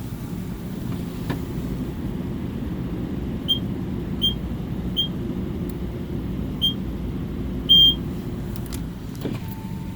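Car wash entry keypad beeping five times as a five-digit wash code is keyed in, the last beep a little longer and louder, over the low hum of an idling car.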